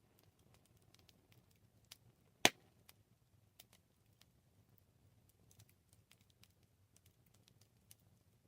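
Campfire crackling: irregular small snaps and pops of burning wood, with one much louder pop about two and a half seconds in.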